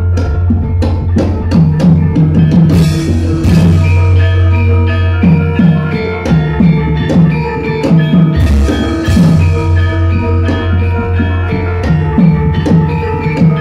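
Javanese gamelan playing at full volume: bronze metallophones ring in steady interlocking lines over repeated drum strokes, with a deep sustained tone underneath.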